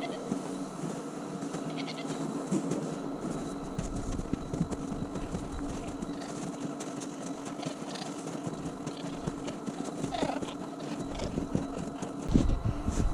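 Goats bleating over a steady low hum, with a low rumble starting near the end.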